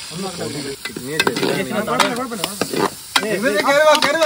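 Food sizzling in hot oil in a steel pan on a portable gas stove, with metal utensils stirring and clinking, and people's voices over it.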